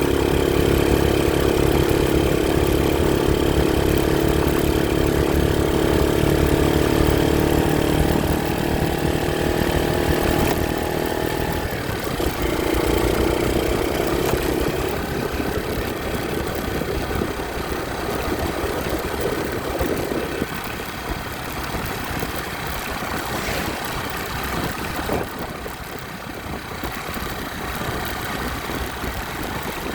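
Motorcycle engine running with a steady pitched note for the first ten seconds or so. The note shifts about halfway through and eases off after about two-thirds of the way, leaving a quieter, rougher engine sound.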